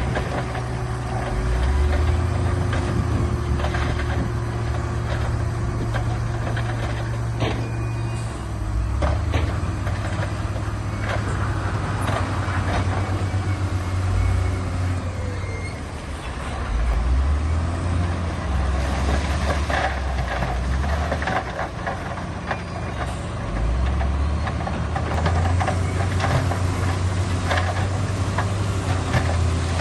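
Heavy diesel earthmoving machinery working: a deep engine note that rises and falls in pitch several times as the load changes, with scattered clanks and knocks throughout.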